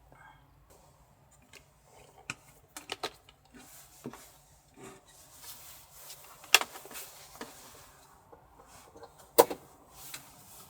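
Scattered light clicks and knocks of small objects being handled in a confined space, with two sharper clacks about six and a half and nine and a half seconds in, over a faint steady low hum.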